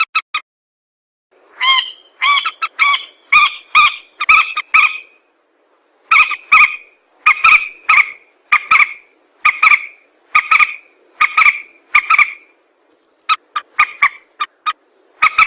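Mandar (rail-family waterbird) calls played as a hunter's lure track: short, loud, pitched notes repeated about twice a second in bouts, turning into quicker, clipped notes near the end.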